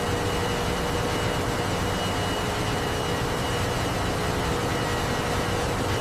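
Steady industrial machinery noise: an even hiss over a low hum, with a few faint steady tones, unchanging throughout.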